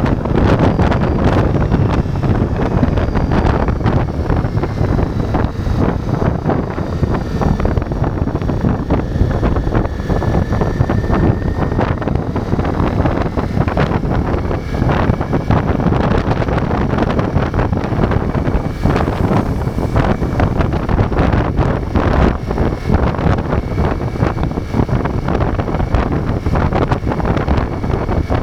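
Ducati Multistrada V4's V4 engine running under way, mixed with heavy wind buffeting on the microphone.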